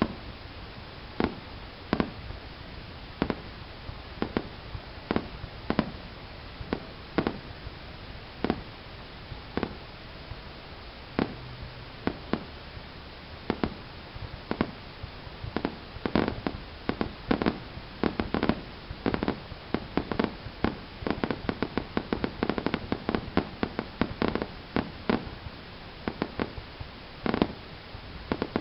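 Fireworks going off: single bangs about once a second, building into a rapid string of overlapping bangs about two-thirds of the way through, then thinning out to a few single bangs.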